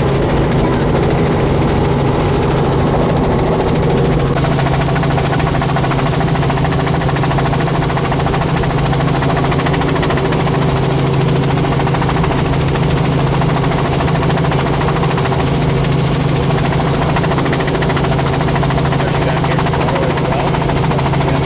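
Small helicopter's engine and rotor running steadily, a loud continuous drone with a fast, even beat.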